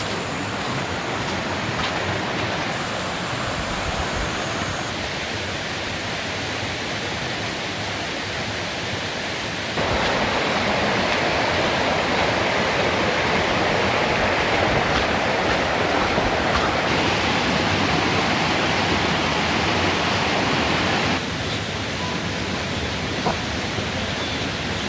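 Steady rushing noise of falling water, growing louder about ten seconds in and dropping back near twenty-one seconds.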